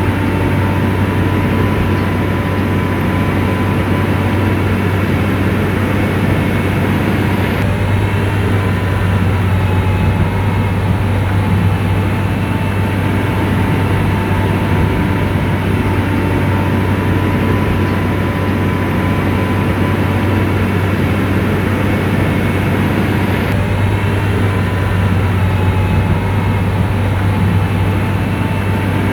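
Komatsu bulldozer's diesel engine running steadily under work, a deep, even hum with a thin whine over it.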